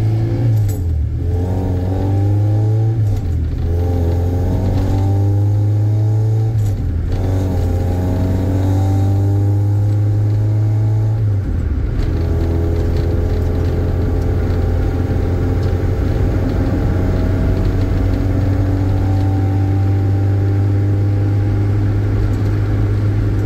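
Honda H23A/B16 (H2B) swapped four-cylinder engine heard from inside the cabin, pulling hard through the gears. Its pitch climbs and drops at each upshift, four times in the first twelve seconds, then rises slowly in the last gear.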